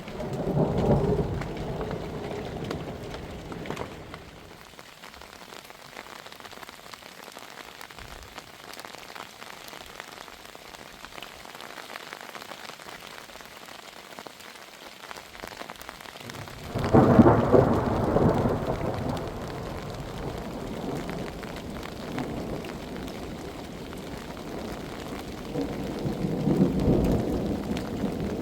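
Thunder rolling three times over steady heavy rain: a rumble about a second in, a louder clap with a long rolling tail about two-thirds of the way through, and another roll near the end.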